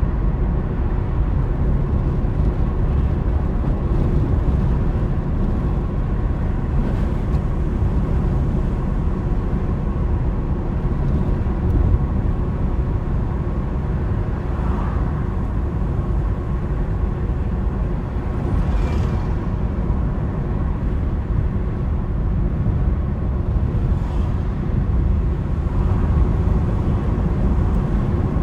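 Steady low rumble of a car driving, from its road and engine noise. A brief hiss comes through about nineteen seconds in.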